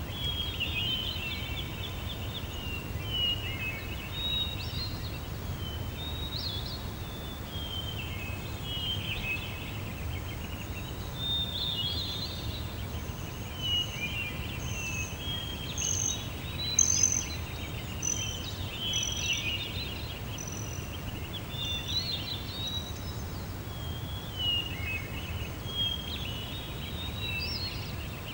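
Several birds chirping and calling in overlapping short phrases, with brief high whistled notes in the middle stretch, over a steady low rumble of background noise.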